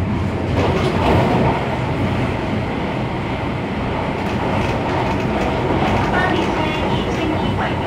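Running noise of an MTR Tung Chung Line A-Train (Adtranz–CAF electric multiple unit) at speed, heard inside the car: a steady rumble of wheels on rail, a little louder about a second in.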